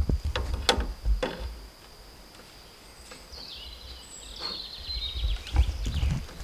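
A small songbird sings one short twittering, trilling phrase in the middle, over low thumps and a few sharp knocks from the camera being carried and handled at the start and again near the end.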